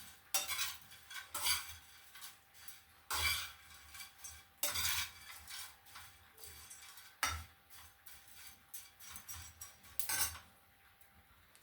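Spoon scraping and stirring dry-fried omena (small dried silver fish) around a metal pan, in irregular strokes about one a second, the fish browned and dry.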